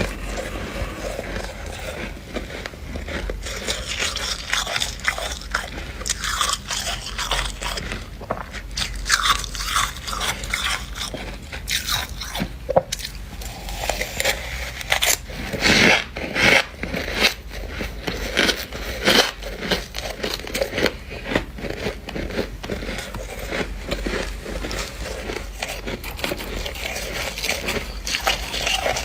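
Dry freezer frost being bitten and chewed close to the microphone: dense, irregular crunching and squeaky crackling, with the loudest crunches around the middle.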